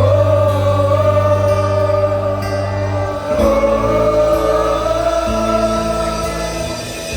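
A choir singing long held notes over a steady low accompaniment, with a change of chord about three seconds in.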